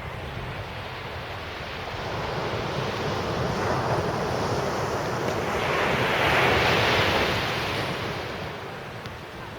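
Sea surf breaking on the beach: the wash of the waves builds to a peak about two-thirds of the way through, then eases off. Wind is blowing on the microphone.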